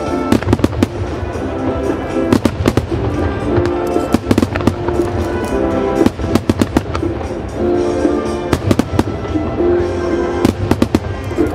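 Starmine fireworks barrage: shells bursting in rapid clusters of sharp bangs, several volleys a few seconds apart, over the music that the display is set to.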